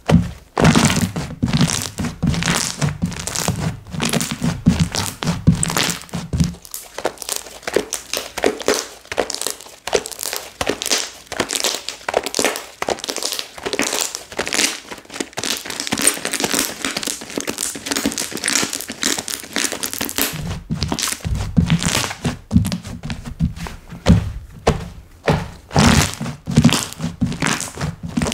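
Slime being played with by hand: squeezed, poked and folded, giving rapid crackling clicks and pops. Dull thumps join in at the start and again for the last several seconds.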